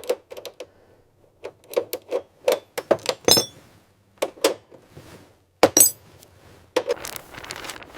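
Irregular light knocks and clinks of small hard objects being handled, about a dozen separate hits with short pauses between them. Two sharper, brighter clicks come a little after three seconds and near six seconds.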